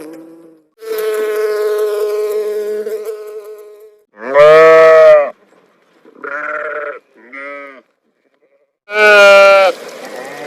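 Farm animals bleating: a long, even call, then a loud quavering bleat about four seconds in, two short bleats, and another loud bleat near the end trailing into quieter wavering calls.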